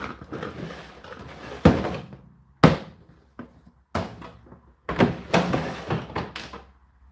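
Indesit IDC8T3 condenser tumble dryer running, its motor humming steadily under irregular thuds and knocks as the load tumbles and drops inside the turning drum.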